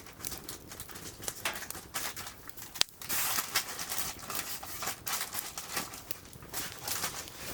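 Wood fire crackling and popping in a firewood grill: irregular sharp crackles over a soft hiss, with one louder pop about three seconds in.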